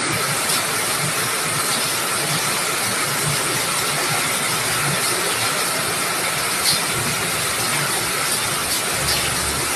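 Steady rushing hiss of floodwater.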